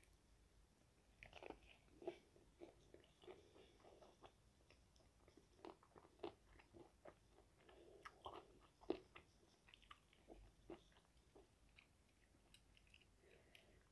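Close-up crunching and chewing of crispy breaded fried chicken: a run of short crackly crunches, loudest about nine seconds in, easing into softer chewing near the end.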